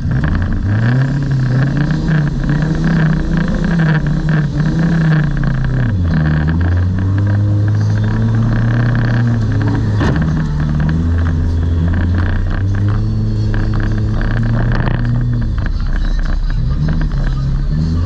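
Demolition derby car's engine, heard close from on the car, running under throttle: its note climbs early, drops sharply about six seconds in, then holds steadier with further rises and dips as the car drives. A sharp knock about ten seconds in.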